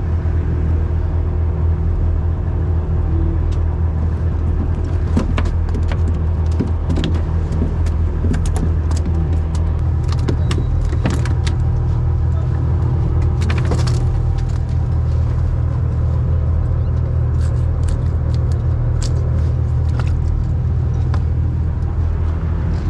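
Fishing boat's engine running steadily, a deep drone, with scattered light clicks and knocks on deck.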